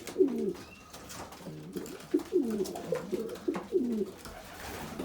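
Racing pigeons cooing in the loft: a series of overlapping low, rolling coos that rise and fall in pitch.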